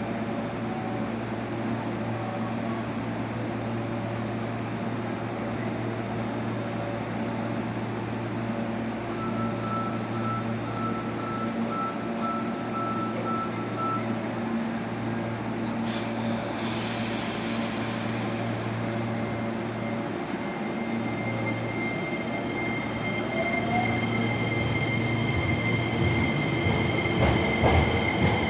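Hankyu 9300 series electric train at the platform with a steady electrical hum, then pulling away. About two-thirds of the way through, the motors' whine rises in pitch and the sound grows louder, and clicks of wheels over rail joints come in near the end.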